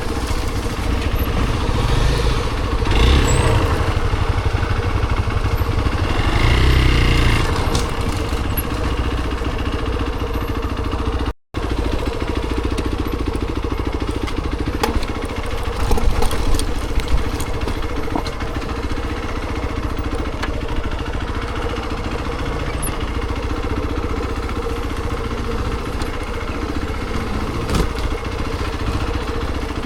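A vehicle engine running steadily, louder around 3 and 7 seconds in, cut off for a moment about 11 seconds in.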